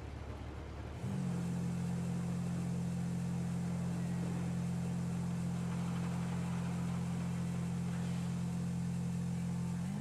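Quad bike engine idling steadily with an even, unchanging hum that sets in about a second in.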